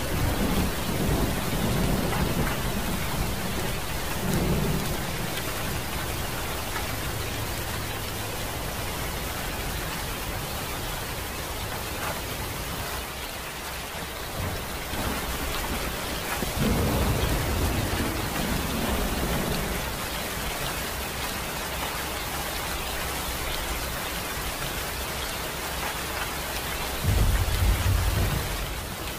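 Rain falling steadily, with low rolls of thunder: one in the first few seconds, another a little past halfway, and a louder, shorter one near the end.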